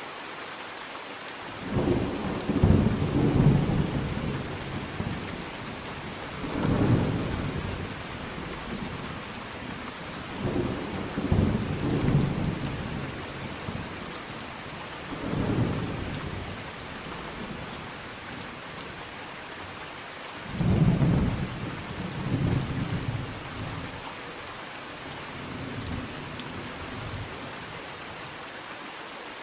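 Thunderstorm: steady rain falling throughout, with rolls of thunder rumbling deep and low about every four to five seconds, the loudest a couple of seconds in and again about two-thirds through.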